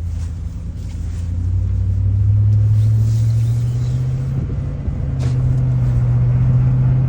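A 2006 Chevy Silverado 1500 pickup accelerating to about 25 mph: a low engine drone that rises in pitch and loudness over the first couple of seconds, dips briefly about four and a half seconds in, then runs steady.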